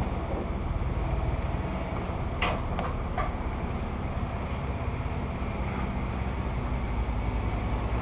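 Jeep Wrangler JK engine running steadily at low revs, with three short sharp knocks or scrapes about two and a half to three seconds in.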